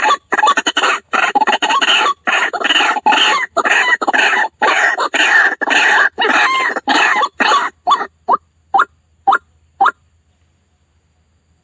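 White-breasted waterhen (ruak-ruak) calls from a lure-call recording: a dense run of loud, harsh repeated calls. After about seven and a half seconds they thin to a few single rising calls about half a second apart, then stop near the end.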